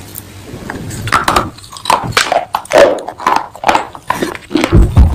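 Close-up crunching and chewing of pieces of baked clay pot, a run of sharp crunches about two a second starting about a second in, with a low thump near the end.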